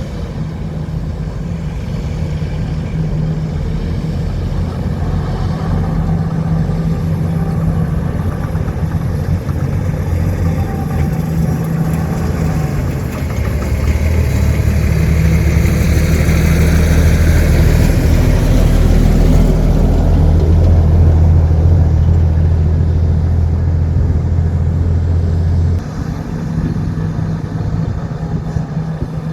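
Large diesel engine of heavy earthmoving equipment running hard under load, its low drone building over the middle of the stretch, then dropping back suddenly about 26 seconds in.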